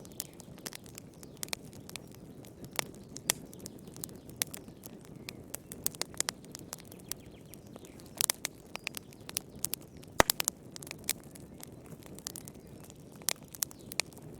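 Wood fire crackling in a fireplace: irregular sharp pops and snaps over a steady low rumble of the flames, with the loudest snap about ten seconds in.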